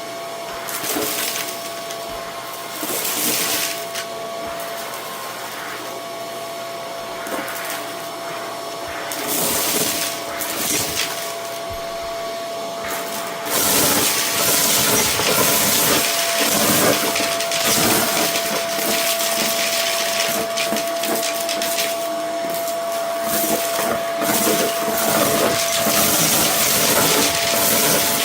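Vacuum cleaner running on a rug with a steady motor whine and hiss, while small bits of debris click and rattle as they are sucked up. It gets louder about halfway through.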